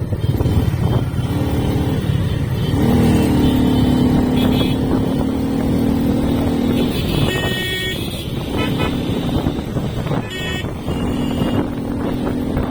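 Motorcycle riding along a road, its engine running with a steady drone under rushing wind on the microphone.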